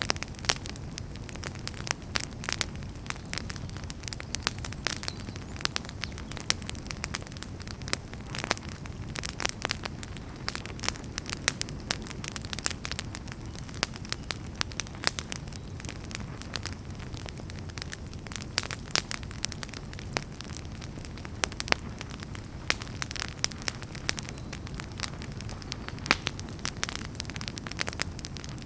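Campfire burning steadily, wood crackling and popping in quick irregular snaps over a low, even rumble of the flames.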